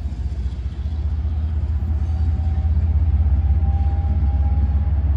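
Train rumbling past, a loud, pulsing low rumble that swells over the first few seconds, with a faint thin whine in the middle.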